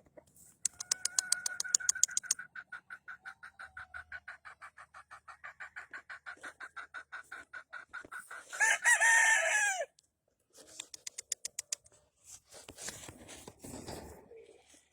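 A gamefowl rooster crowing once, loud and about a second long, around nine seconds in. Before it comes a long run of rapid, evenly repeated high chirping pulses, and afterwards shorter runs of the same pulses and some rustling noise.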